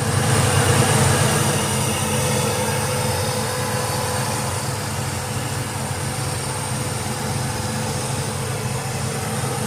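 Pontiac 455 V8 in a GMC Sonoma pickup idling steadily with a low rumble, swelling in the first second and then holding even.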